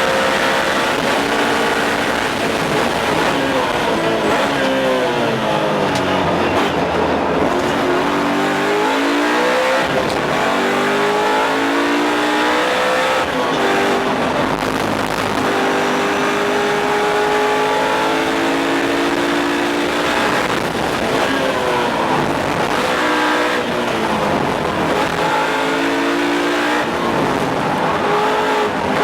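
BMW M3 race car's V8 engine heard from inside the cockpit at racing speed, its pitch climbing through the gears and dropping sharply on each shift. Several times it goes through a quick run of downshifts under braking, the pitch falling and jumping back up in steps.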